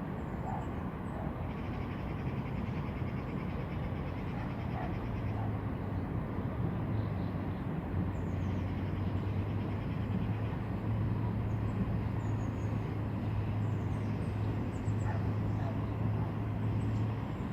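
Outdoor ambience with a steady low engine hum that grows louder from about five seconds in, over a constant noisy background, with a few faint high chirps.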